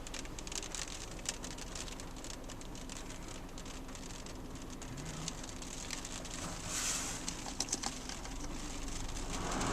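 Rain pattering on a parked car's roof and windshield, heard from inside the cabin as a steady scatter of small taps over a faint low hum.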